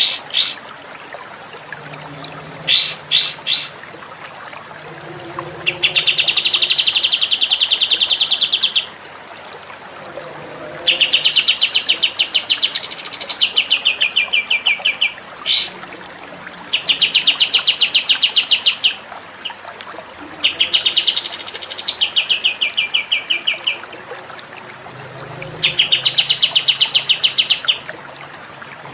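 Songbird song from a masteran (tutor recording for caged songbirds): five fast trills of rapidly repeated high notes, each lasting about three seconds, with a few short sharp whistles near the start and once midway.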